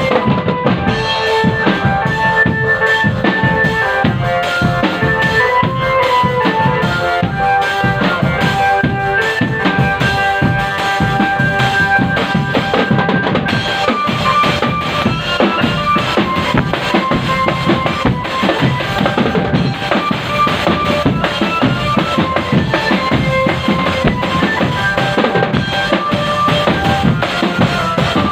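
Drum band playing: a dense, continuous snare and bass drum rhythm under a melody of held, stepping notes.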